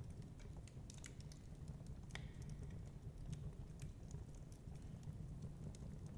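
Wood fire crackling, with scattered small pops and one sharper pop about two seconds in, over a steady low rumble of storm wind.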